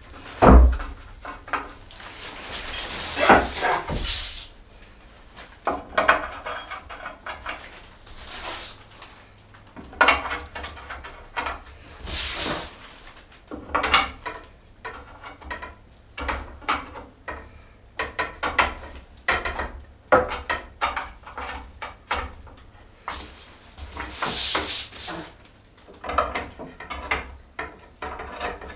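Metal threaded rods being fitted into the wooden side rails of a loft ladder: irregular knocks, clicks and scrapes of metal and wood being handled, with a few longer scraping slides.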